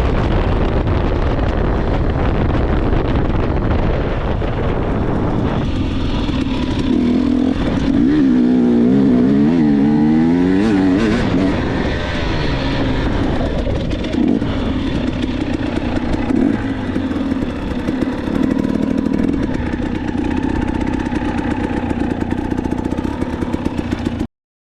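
Dirt bike engine running under throttle, revving up and down several times around the middle, then pulling more steadily; the sound cuts off abruptly near the end.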